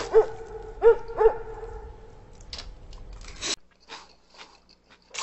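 A short run of bouncing pitched blips in the first second, then eating sounds: a mouthful of mixed rice being chewed with a few crunchy, noisy bites.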